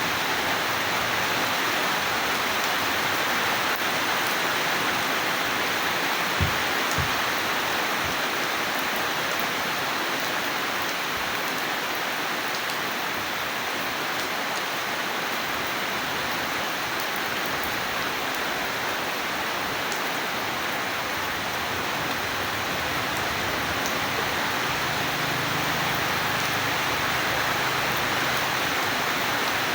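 Steady rainfall, an even hiss with no let-up, with two brief low thumps close together about a quarter of the way in.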